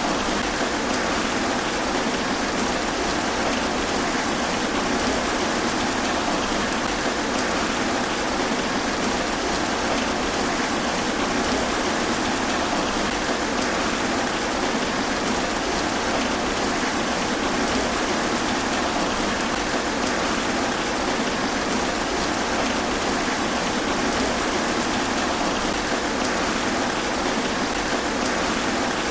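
Steady rain falling through trees, an even hiss of drops on leaves that does not let up.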